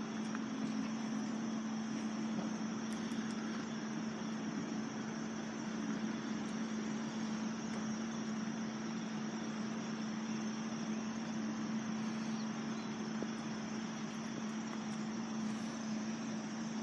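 Steady drone of a vehicle engine idling, with an even hum that holds one pitch throughout over a faint background hiss.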